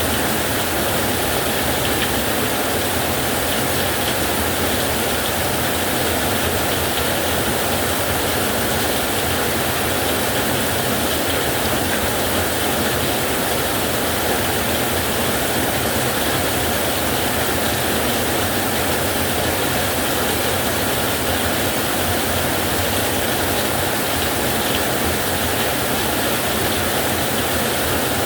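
Heavy rain falling on a metal roof, a dense, steady hiss with no let-up and no thunder.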